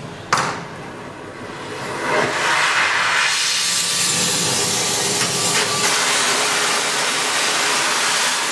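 Oxy-LPG cutting torch being lit: a single sharp click from the flint lighter just after the start, then the gas hiss builds over a second or so into the steady loud hiss of the burning torch flame.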